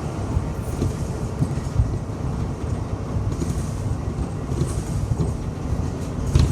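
Inside a moving city bus: steady engine and road rumble, with scattered knocks and rattles from the cabin. The loudest knock comes near the end.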